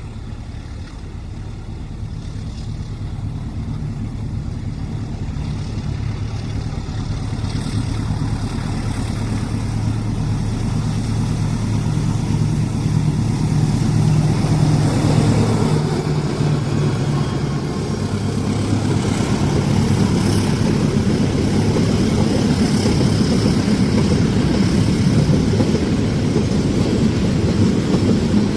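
Diesel locomotive approaching, its engine drone growing steadily louder, then passing about halfway through, followed by the rumble of train cars rolling by on the rails.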